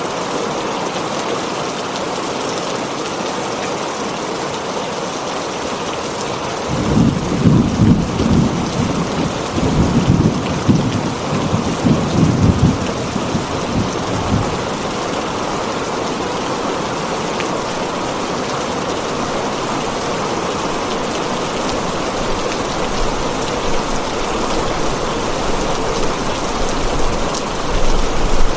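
Heavy rain drumming steadily on a tin roof. About a quarter of the way in, thunder rolls in with a low rumble that swells in several peaks for about seven seconds, then dies away under the rain.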